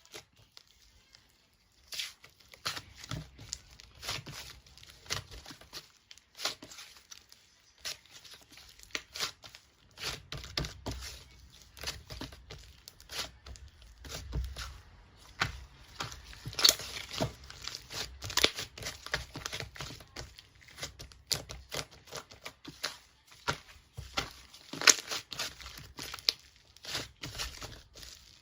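Crinkling and tearing sounds from material being handled close up, in irregular sharp crackles and taps.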